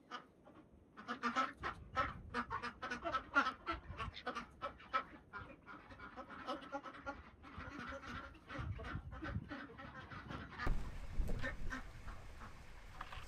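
A flock of ducks quacking in quick, busy chatter. Near the end a rush of noise comes in under the calls.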